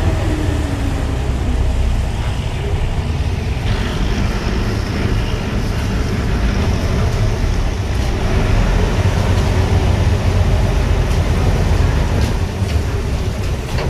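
A vehicle's engine running steadily with a loud, continuous low rumble, as heard from on board.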